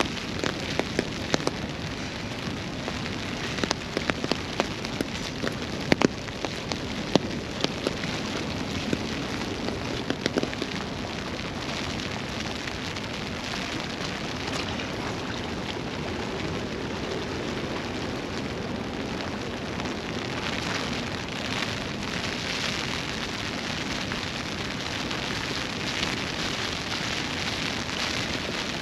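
Steady rain falling, with scattered sharp taps of drops hitting close by through the first ten seconds or so.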